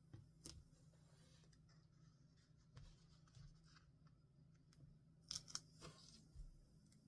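Faint paper and stationery handling sounds from journaling: light rustles and small taps, with a quick cluster of sharp clicks about five seconds in.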